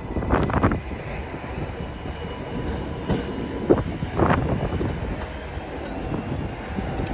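R188 subway train on the 7 line running, its wheels knocking irregularly over rail joints over a steady rumble.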